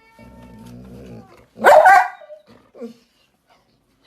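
A dog barks once loudly about one and a half seconds in, with a couple of softer sounds after it. It is preceded by a faint low rumble.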